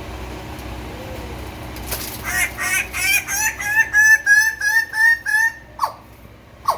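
Male Raggiana bird-of-paradise giving its courtship display call: a rapid series of about a dozen loud, nasal calls, about three a second, rising a little in pitch, followed by two short falling notes.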